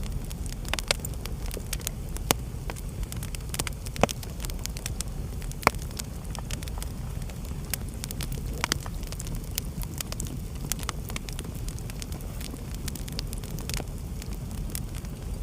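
Wood fire burning in a fireplace: a steady low rumble of flames under constant crackling, with several louder sharp pops in the first half.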